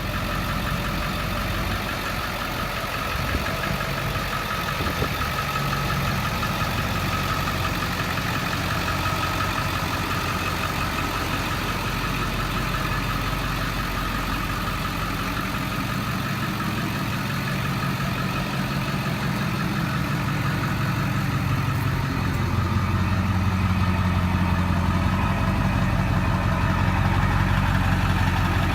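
Ford 7.3L Power Stroke V8 turbo-diesel of a 2002 F-350 with a free-flow intake and exhaust, idling steadily. It gets a little louder about 22 seconds in.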